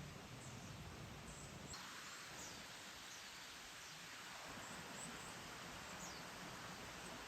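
Faint outdoor ambience: a small bird's short, high, downward chirps repeating every second or so over a steady hiss of background noise, which changes character about two seconds in.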